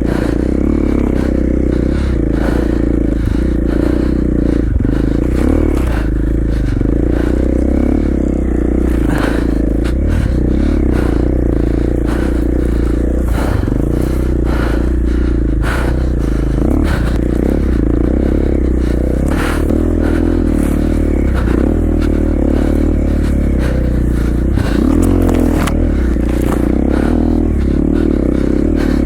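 KTM 450 XC-F four-stroke single-cylinder dirt bike engine running at a steady pace, with frequent sharp knocks and scrapes from the bike working through deep snow.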